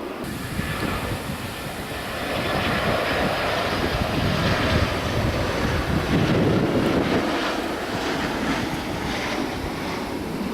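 Jet airliner passing, its engine noise swelling to a peak about midway and then easing off.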